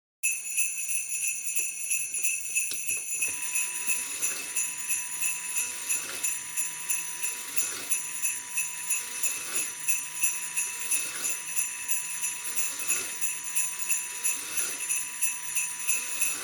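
Sleigh bells jingling in a steady, even rhythm, with a faint steady tone joining about three seconds in.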